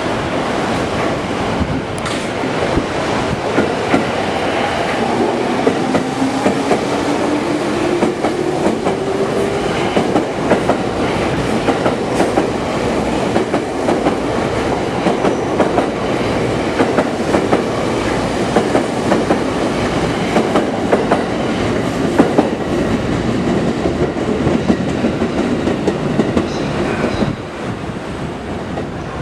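JR East E231 series 800 electric commuter train running past, its wheels clattering over rail joints, with a rising motor whine as it gathers speed from about five seconds in; the noise drops away near the end.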